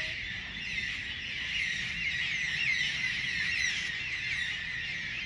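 A dense chorus of many small birds chirping and twittering at once, the short high calls overlapping steadily.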